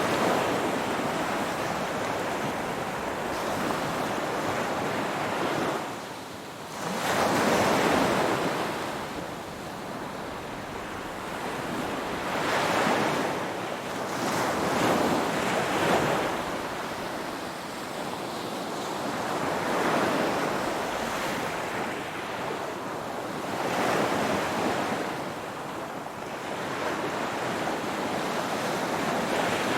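Ocean waves breaking and washing on the shore, swelling and falling back every few seconds, the loudest surge about a quarter of the way in.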